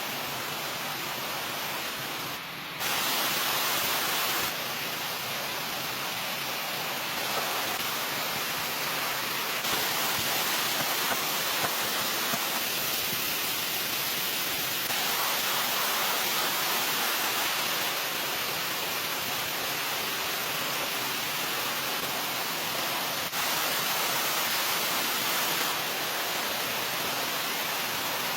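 Steady rushing noise with no distinct events, jumping in level at several edits.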